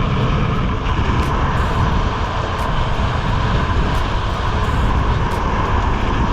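Motorboat engine running steadily under way, a constant loud rumble with a faint steady whine, mixed with wind on the microphone.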